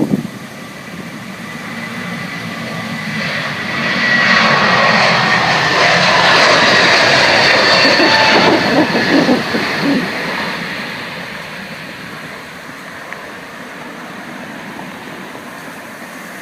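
Airbus A321neo's jet engines passing by: the engine noise swells, peaks for several seconds with a high whine that slowly falls in pitch, then fades away.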